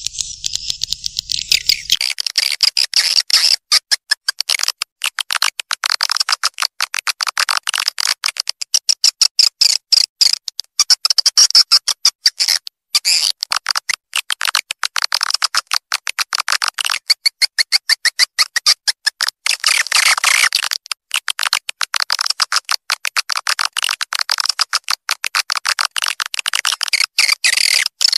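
Edible-nest swiftlet lure call recording: a dense, unbroken stream of rapid, high swiftlet chirps and twitters, played to draw swiftlets into the central area of a swiftlet nest house. It fills out about two seconds in.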